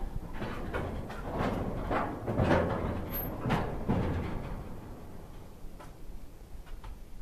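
Freight train of tank wagons creeping along at walking pace, its wagons' couplers and running gear giving irregular creaks and clunks. They are loudest in the first half and ease off after about four seconds.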